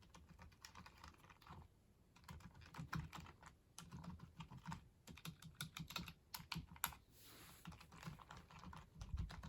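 Typing on a Walmart onn wireless silent full-size keyboard: a run of soft, very quiet, irregular keystroke clicks.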